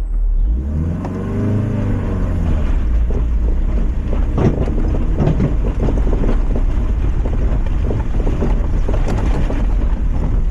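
Lifted Mazda MX-5's four-cylinder engine pulling hard up a trial section. The revs rise and fall early on, then the engine holds on under load with a run of knocks and clatters from the car on rough ground.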